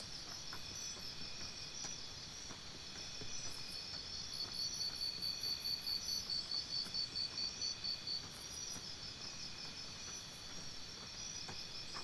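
Crickets chirping in a steady, even rhythm, about three to four chirps a second, a little louder in the middle stretch.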